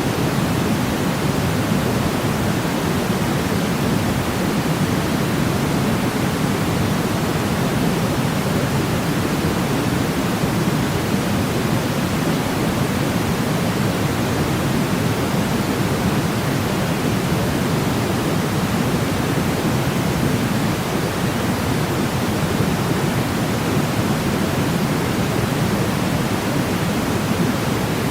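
Steady, unchanging synthetic noise, weighted toward the low end like pink noise, played as a sleep aid.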